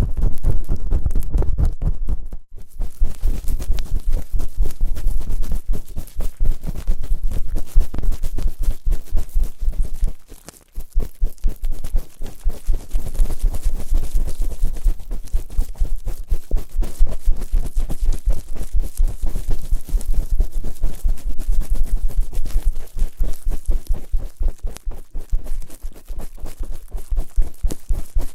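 ASMR ear-cleaning sounds: fast, dense scratching and rubbing right on the microphone. There is a short pause about ten seconds in.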